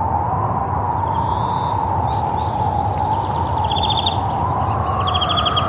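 Birds calling, with two quick trills about a second and a half in and again near the end, over a steady rushing background.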